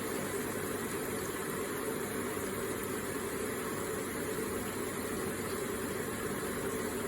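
Water running steadily in an electric water feature, an even, unbroken sound of flowing water.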